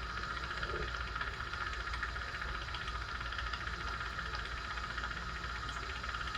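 A steady hiss with a low hum underneath, unchanging throughout.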